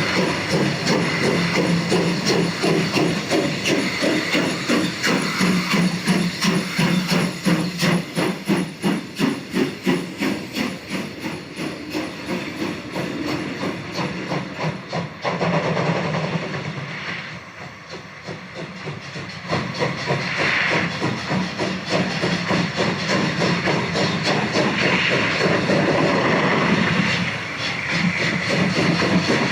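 Piko BR 80 model steam locomotive's sound decoder playing a steady rhythm of steam chuffs over a hiss as the model runs. The sound dips and thins for a couple of seconds just past the middle, then picks up again.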